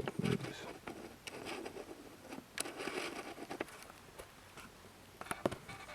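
Faint rustling with scattered sharp clicks and taps.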